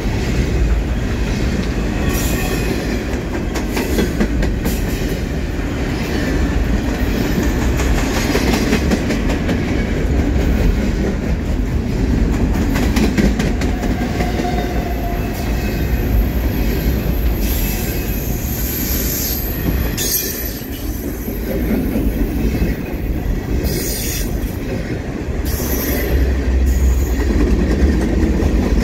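Double-stack container freight cars rolling past close by: a steady, loud rumble of wheels on the rails with rapid clicking over the joints. A thin high squeal from the wheels runs for several seconds in the middle and comes again briefly near the end.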